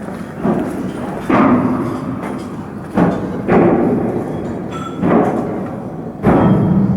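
About six heavy knocks at uneven spacing, roughly one every second, each fading out over most of a second, over steady work noise.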